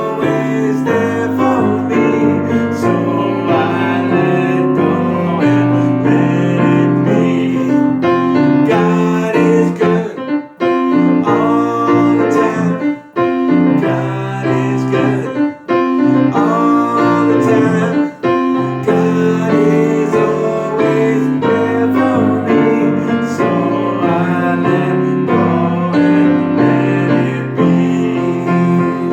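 Piano music playing a song, with notes changing continuously throughout.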